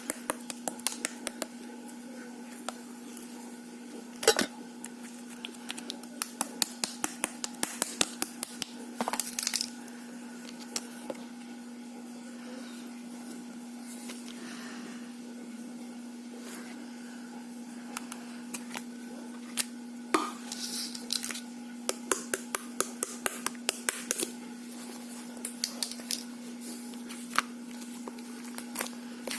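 Thick mugwort rice cake (ssukddeok) slime being pressed, folded and poked by hand, giving irregular runs of sharp clicks and air-bubble pops, over a steady low hum.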